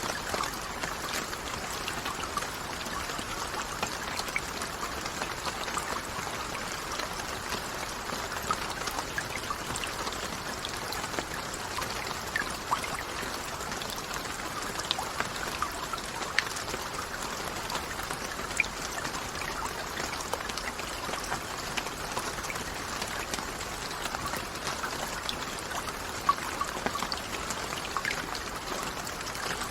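Steady rain falling, an even hiss with individual drops tapping sharply here and there.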